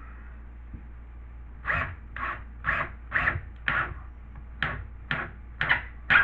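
Short scraping strokes of a hand tool shaping the edge of a cut piece of drywall to fit, about two a second, with a brief pause partway through.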